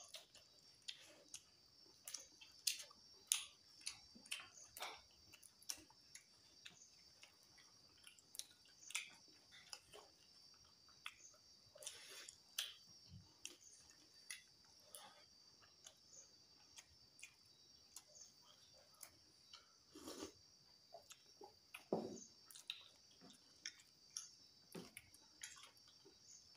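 Close-miked eating by hand: wet chewing, lip smacks and soft clicks from mouths and fingers working rice and boiled eggs, irregular and scattered, over a faint steady high hiss.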